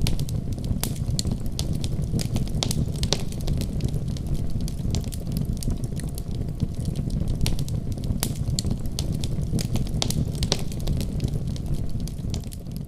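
Wood fire crackling in a fireplace: frequent sharp pops and snaps over a steady low rumble of the burning fire.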